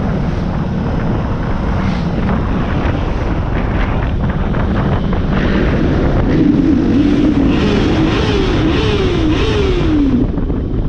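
Motorcycle riding along with heavy wind rush on the microphone. A few seconds past the middle the engine note climbs and drops back four times in quick succession as it shifts up through the gears, accelerating.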